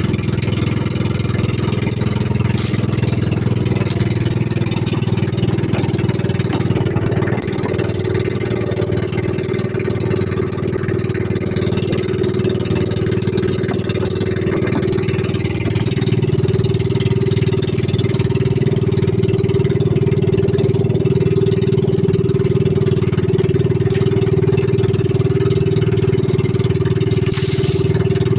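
Fishing boat's engine running steadily, getting a little louder about halfway through.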